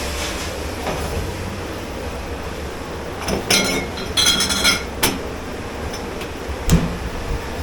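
Dishes and metal utensils being handled in a commercial dish pit: two bursts of ringing clinks about halfway through, a sharp clatter just after and a dull knock near the end, over a steady low hum of kitchen machinery.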